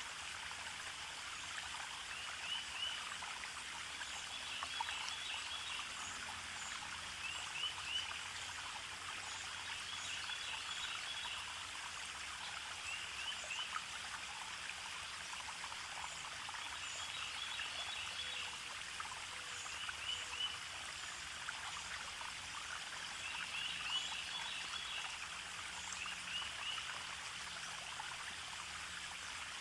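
A small forest stream trickling and splashing steadily, with short bursts of quick, high chirping calls from a small animal repeating every two to three seconds.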